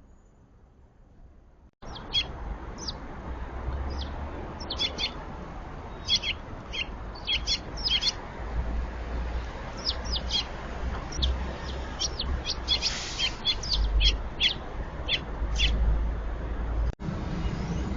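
Small birds chirping in many short, high notes over a steady low rumble. The chirping starts abruptly about two seconds in, after a quiet opening.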